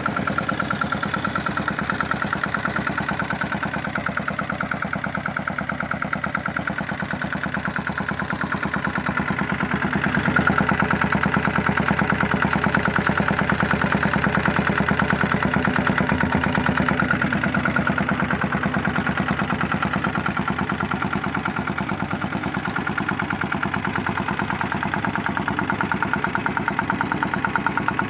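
Small diesel engine on a mini bike running steadily with an even, rapid chugging beat, a little louder from about ten seconds in.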